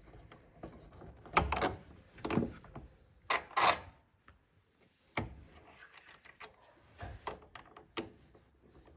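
Battery lead terminals being fitted and turned onto the battery posts of a 1952 Land Rover Series 1: scattered metallic clicks, scrapes and knocks, with short gaps between them.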